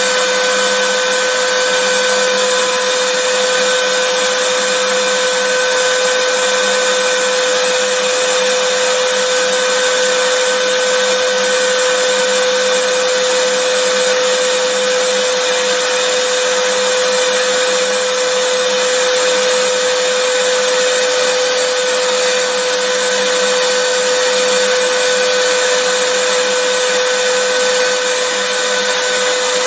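Vacuum cleaner running steadily: a constant motor whine over an even rush of air, with no change in pitch or level.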